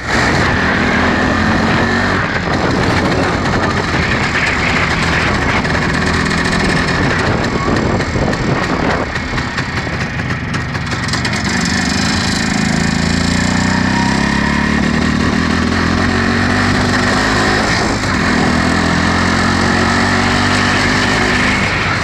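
1962 MZ 250 cc single-cylinder two-stroke motorcycle engine running under way on a sidecar outfit, its note rising and falling as it pulls away and changes speed, with a brief dip in loudness about halfway through.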